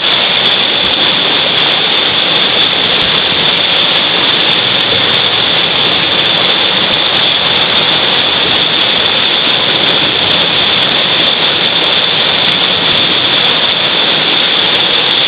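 Whitewater rapids of a mountain river rushing, a loud, steady, unbroken noise.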